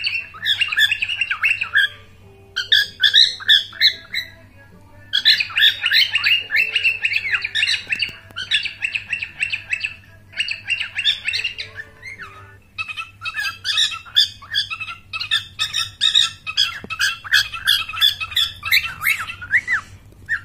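Pet cockatiel chattering and squawking in runs of rapid, high chirped calls, broken by a few brief pauses.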